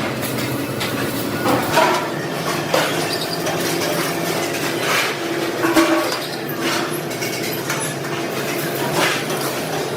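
Steady factory-floor machinery noise with irregular metal clinks and knocks, several a second or more apart.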